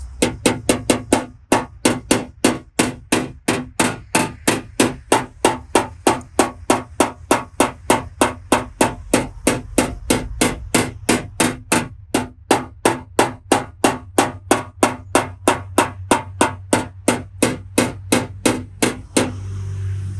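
Steady, rapid hammer taps on a tap-down tool against a car body panel, about three a second with a short pause near the middle: the light tapping that finishes a paintless dent repair.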